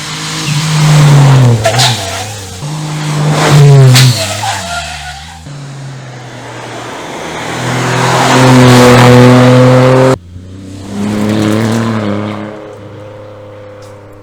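Lancia Ypsilon HF Racing rally car's 145-horsepower engine and exhaust under hard driving. The revs climb and drop sharply twice in the first few seconds, then hold high and steady, then cut off abruptly about ten seconds in to a lower running note.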